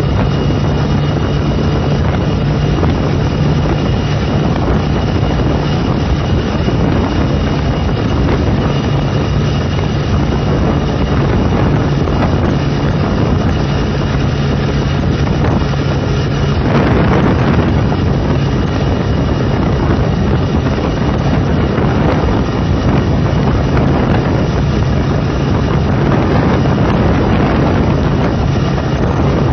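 Motorcycle engine running at a steady cruise with strong wind rush over the microphone. A louder surge of wind noise comes a little past halfway.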